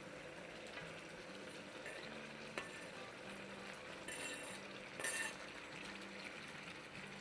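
Chicken frying with a faint sizzle in a wok. The water from the yogurt has almost cooked off, so the chicken is frying in oil that has come to the top. Chopped tomatoes and green chillies are slid in from a plastic cutting board, with a few brief scrapes and clinks of a knife against the board.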